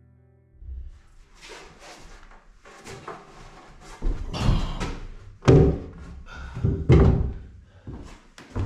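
A run of irregular knocks and thuds, the loudest about four, five and a half and seven seconds in.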